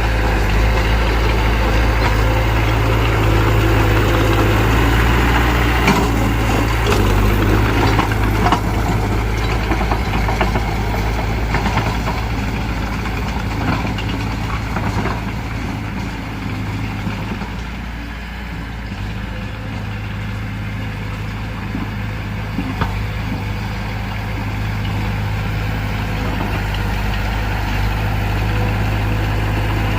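Heavy diesel engine of earthmoving equipment running steadily, with a few knocks about six to nine seconds in and a slight easing in level around the middle.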